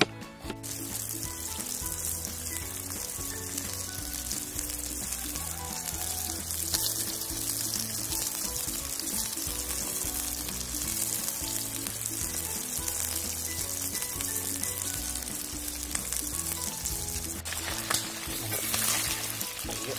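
Chicken pieces sizzling and frying in their own juices in a steel pot, stirred now and then with a wooden spoon; the sizzle starts just under a second in and holds steady.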